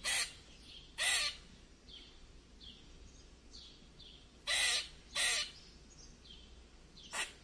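Birds calling: five short, harsh calls spread out, with faint high chirps in between.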